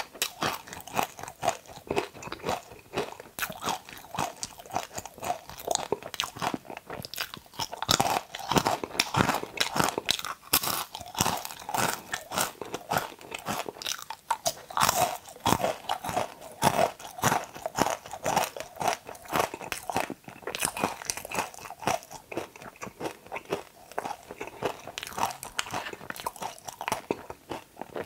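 Okra being bitten and chewed, a steady run of crunches with no pause.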